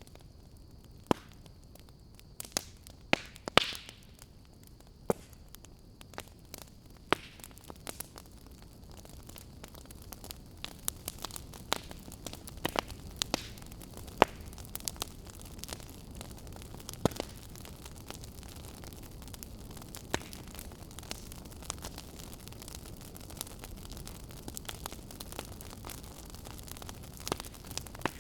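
Wood fire burning in a fireplace, crackling with irregular sharp pops over a low steady hiss. The hiss swells slightly about a third of the way in, and the pops come more often after that.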